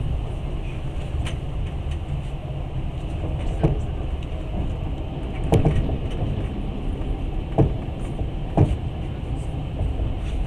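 Passenger train carriage running, heard from inside: a steady low rumble, with a few sharp knocks from the wheels in the middle and latter part.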